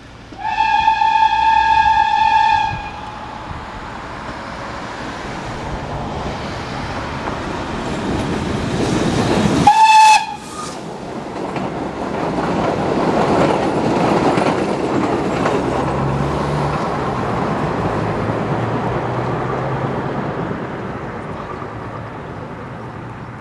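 A train whistle blown in one steady blast of about two seconds, followed by the rumble of a train approaching and passing. About ten seconds in, a short second whistle blast sounds just as the sound cuts off abruptly, and then another passing-train rumble swells and slowly fades.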